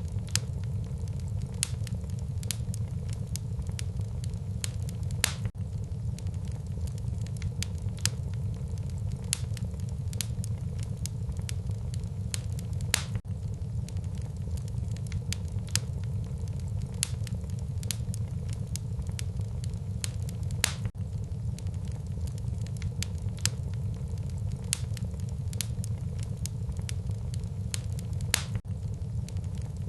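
Wood fire burning in a fireplace: steady crackling with irregular sharp pops over a low, steady rumble of the flames, a few pops louder than the rest.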